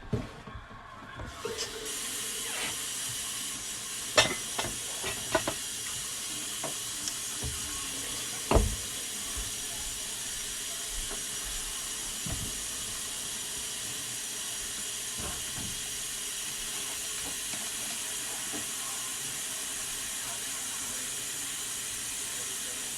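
Kitchen tap turned on about two seconds in and running steadily into a sink, with a few sharp knocks and clinks over the next several seconds.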